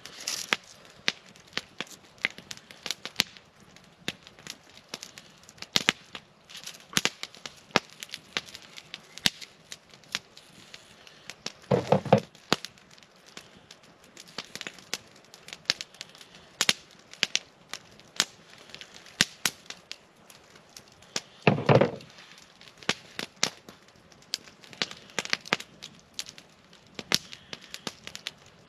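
Wood campfire crackling and popping irregularly, with two louder, deeper snaps about ten seconds apart.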